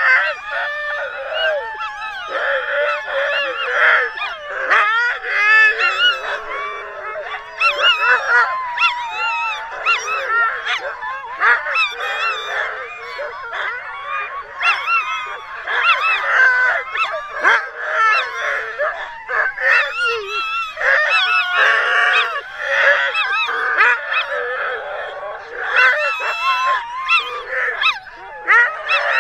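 A pack of sled dogs yelping and howling together, many wavering high-pitched cries overlapping without a break.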